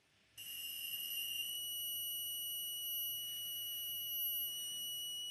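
LG W2243S LCD monitor giving off a steady high-pitched whistle, the fault it is being tested for before repair. The whistle starts suddenly about half a second in, just after a faint click, and holds at one pitch.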